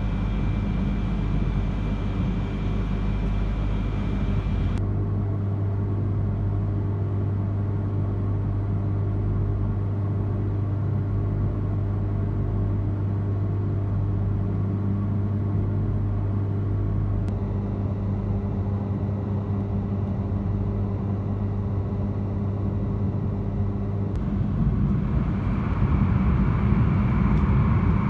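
Inside a Yamagata Shinkansen train, a steady electric hum with a few level tones as it stands and then pulls away from the station. The running noise grows louder near the end as the train heads into a tunnel.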